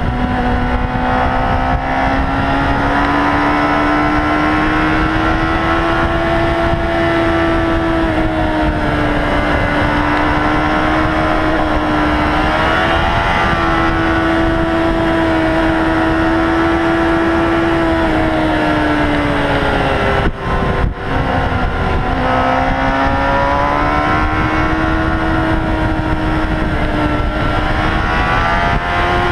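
Motorcycle engine running steadily at high revs under wind rush, its pitch drifting slowly up and down. About two-thirds of the way through it dips briefly twice and comes back at a lower pitch, then climbs again, as with a gear change.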